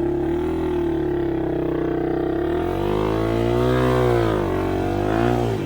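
Off-road motorcycle engine running under load at steady revs, then revved up and back down twice as the rider works the throttle on a climb.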